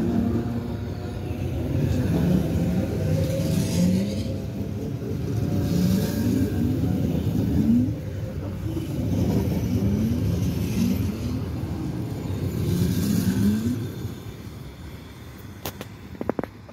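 Electric commuter train (elektrichka) passing close by and moving away. Its rumble carries short pitched tones that rise again and again, then fades about 14 seconds in, and a few sharp clicks follow near the end.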